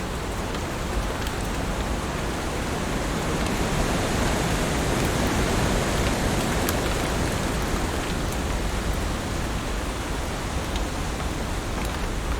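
Heavy rain falling steadily, a dense even hiss with scattered individual drop ticks, swelling slightly in loudness in the middle.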